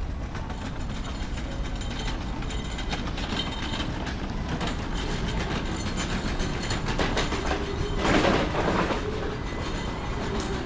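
Honda Super Cub C125's single-cylinder engine running under way, with road and wind noise; a louder rushing swell comes about eight seconds in.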